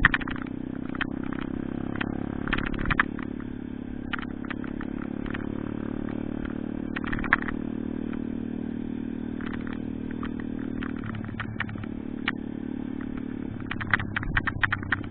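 Pitbike's small single-cylinder engine running steadily; its note shifts about eleven seconds in and again a couple of seconds later. Clusters of rattling clicks come and go over it.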